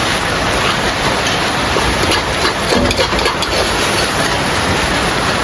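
Heavy rain falling outside an open window, a loud, steady rushing hiss.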